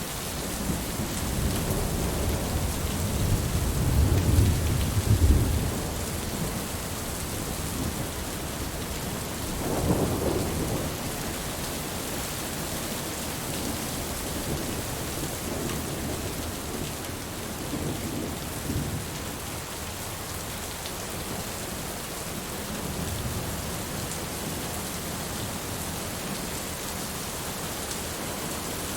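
Steady heavy rain with low rolls of thunder: a long rumble builds over the first few seconds and peaks about five seconds in, another comes around ten seconds, and fainter ones follow later.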